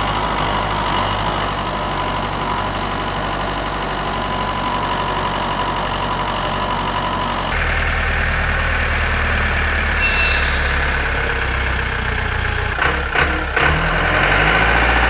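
Tractor engine running steadily; its sound changes abruptly about halfway through, as if switching to a different engine recording.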